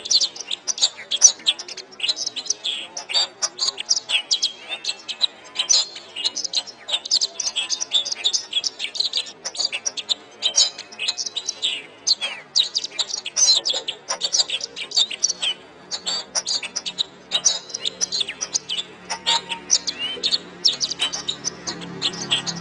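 Domestic canary singing: a fast, unbroken run of high chirps, trills and twitters. A faint low hum creeps in during the last few seconds.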